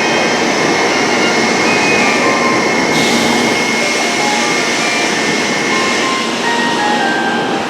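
A Tokaido Shinkansen train moving along the platform: a loud, steady rush of wheels and air with a thin high whine over it, easing slightly near the end.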